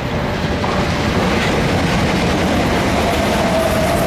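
South Western Railway electric multiple unit passing close by, a steady rumble of its wheels running along the track. A thin high tone comes in about three seconds in.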